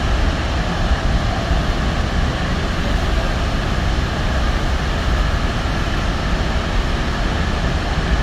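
The steady roar of Niagara Falls: a loud, even rush of plunging water that does not change.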